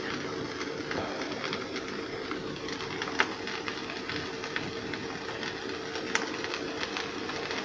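Steady kitchen stove background: a constant low hum and hiss, with sparse light crackles like meat sizzling in a pan.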